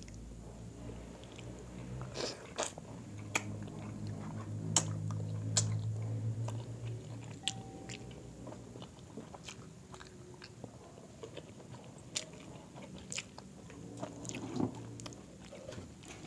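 Close-up mouth sounds of people eating grilled chicken by hand: chewing, lip smacks and sharp clicks, with a low hum in the first half.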